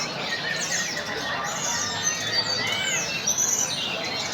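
Many caged songbirds singing at once, tledekan gunung among them: overlapping quick whistles, glides and chirps, with a constant background murmur beneath.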